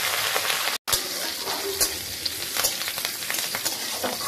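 Curry leaves, cumin and mustard seeds sizzling in hot oil in a kadhai, stirred with a steel spatula that scrapes and clicks against the pan. The sound cuts out for a moment just under a second in.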